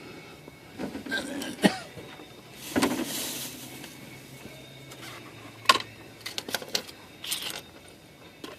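Handling noises of an oil change under a car: a few sharp metallic clicks and knocks with a short rustle, as parts and tools are moved about. Two clicks stand out, one about a second and a half in and one near the middle.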